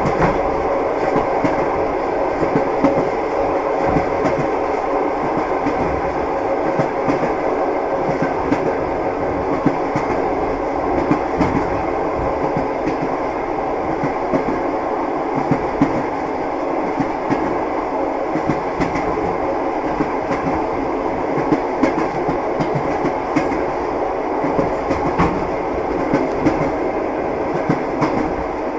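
A moving train's wheels knocking over the rail joints (clickety-clack) over a steady rumble.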